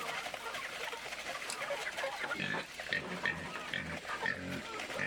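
Pigs grunting: a few short, low grunts, among scattered higher chirping calls.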